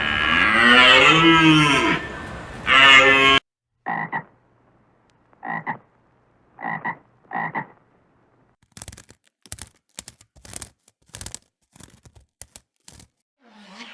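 Frogs calling: four short croaks about a second apart, then a run of rapid clicking calls. Before them, for about the first three seconds, a loud animal call that bends up and down in pitch.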